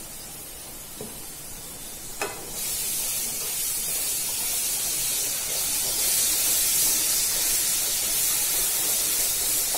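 Ginger-garlic paste with chopped coriander sizzling in hot oil in a kadhai while it is stirred with a wooden spatula. After a knock about two seconds in, the sizzle grows louder and stays as a steady high hiss.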